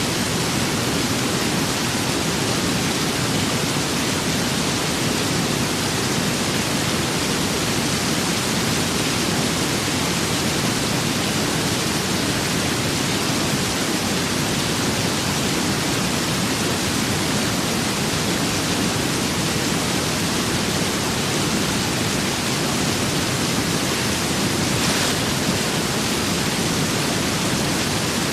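Rain and wind: a steady, even hiss with nothing standing out.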